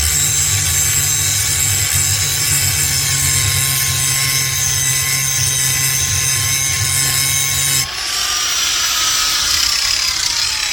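Harbor Freight angle grinder, with no handle fitted, grinding steel on an old pipe wrench, its motor whine steady under the rasp of the wheel. About eight seconds in, the grinding stops abruptly and the motor winds down with a falling whine.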